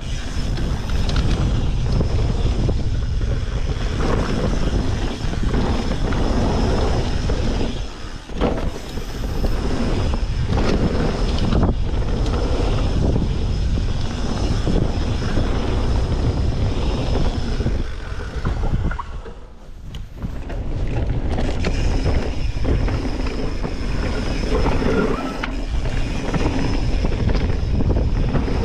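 Mountain bike ridden fast down a dirt bike-park trail, heard from a rider-mounted camera: steady wind noise on the microphone and tyre rumble, with frequent knocks and rattles from the bike. The noise drops away briefly twice, about 8 seconds in and about 19 seconds in.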